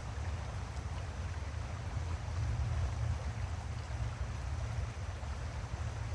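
Steady outdoor nature ambience: a choppy low rumble with an even hiss over it.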